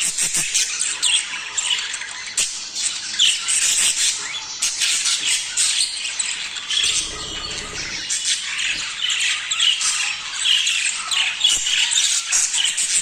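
A group of budgerigars chattering continuously with busy warbling, chirps and squawks, the kind of budgie chatter played to get pairs into breeding condition.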